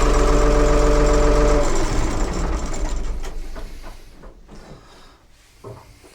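1975 Ford 550 backhoe's engine running steadily, then switched off a little under two seconds in. The sound dies away over the next couple of seconds, leaving a few faint clicks.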